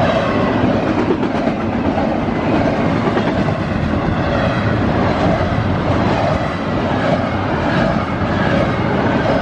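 CSX intermodal freight train passing at speed close by: a loud, steady rumble of wheels on rail with a clickety-clack.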